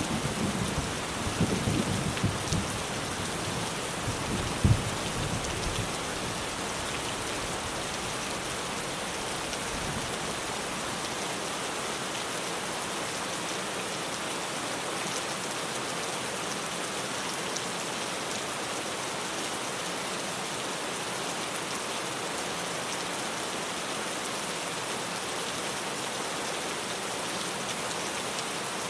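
Rain falling steadily on a tin roof. A thunder rumble fades out over the first few seconds, with one short louder peak about five seconds in.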